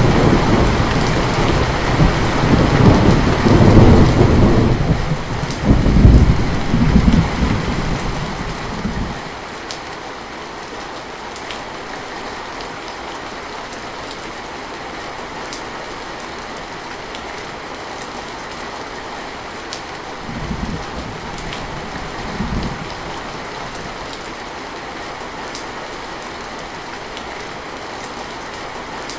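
Heavy rain falling steadily, with a long, loud roll of thunder over the first nine seconds or so that dies away, then two short low rumbles of thunder about two-thirds of the way through.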